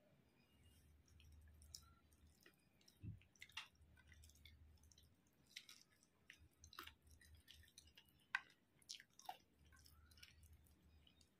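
Faint chewing of a handful of basmati rice and chicken curry eaten by hand, with scattered small wet mouth clicks.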